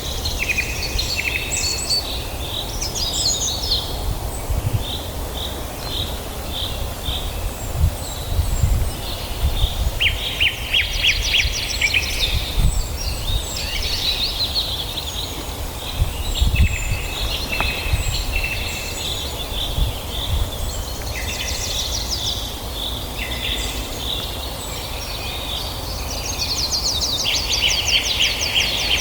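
Several wild birds calling and singing at once: rapid trills and short repeated chirps overlapping, over a steady low rumble.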